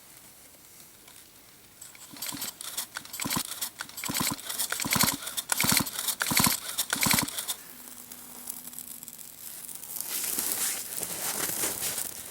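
Chainsaw recoil starter pulled hard about six times in quick succession, the engine cranking over without firing because its spark plug is out and is sparking onto petrol-soaked birch bark. A hissing crackle follows near the end.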